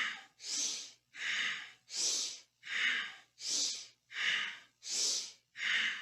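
Forceful, rhythmic breathing in time with a seated spinal flex. Inhales and exhales alternate without pause, about four full breaths in six seconds, as the spine flexes forward on each inhale and back on each exhale.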